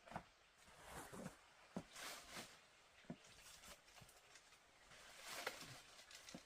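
Faint rustling with scattered light clicks and knocks at irregular intervals, as of things being handled.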